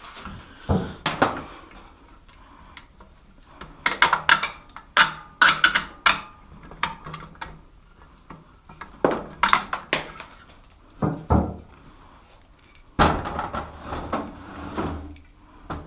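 Metal clinking and clattering of tools and small motorbike parts being handled and set down, in several bursts of sharp knocks with quieter gaps between them.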